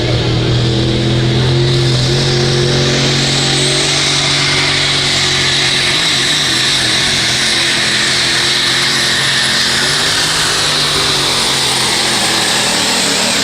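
Diesel pickup truck engine running flat out under load while pulling a sled, with a high turbocharger whine over a steady low engine note.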